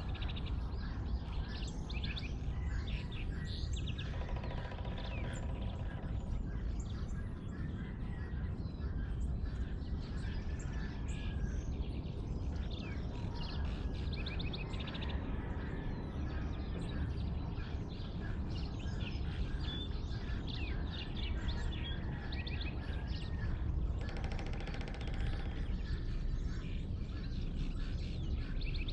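Dawn chorus of many small birds chirping and calling over a steady low rumble. A lower, pitched call comes in twice, about four seconds in and again near the end.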